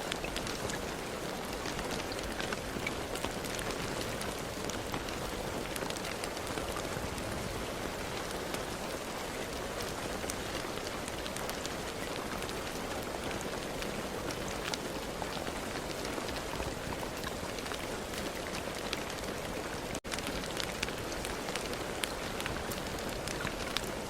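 Steady rain falling on a surface, a dense even hiss with many individual drops ticking through it. The sound cuts out for an instant about twenty seconds in, then carries on unchanged.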